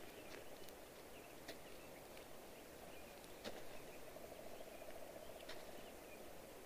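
Near silence: faint outdoor ambience with a few small scattered clicks.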